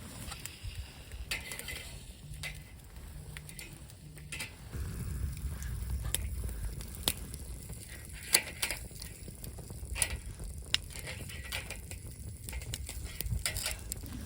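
Camp cooking sounds: a faint sizzle under scattered sharp clicks and clatter of utensils. A low rumble swells in the middle.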